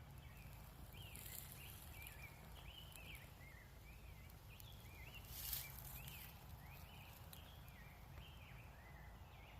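Faint birdsong: many short, repeated chirps over a low steady outdoor rumble, with a brief rustle about halfway through.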